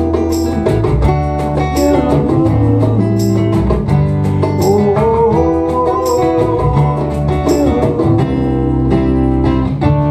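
Acoustic guitars playing an instrumental passage of a live acoustic song, with a sharp percussive hit about every second and a half.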